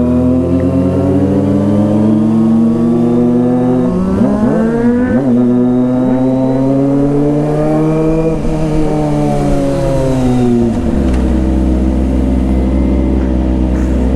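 Kawasaki ZX-25R's 250 cc inline-four engine running under way in traffic: its pitch dips and jumps about four seconds in, climbs slowly, then falls off about ten seconds in and settles low and steady as the bike slows. Engines of other passing vehicles sound briefly around four to five seconds in.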